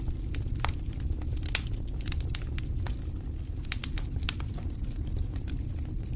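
Campfire crackling: irregular sharp pops and snaps of burning wood, one louder snap about a second and a half in, over a steady low rumble.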